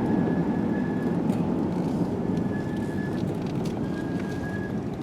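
Car cabin noise while driving: steady road and engine rumble, with a faint high tone that comes and goes a few times.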